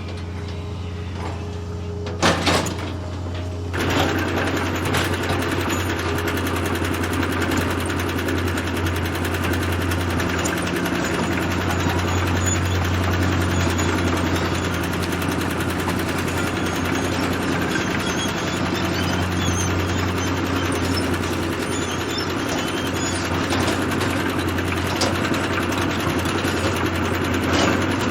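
Heavy construction machine's engine running steadily, with a short knock about two seconds in and the engine noise growing louder about four seconds in.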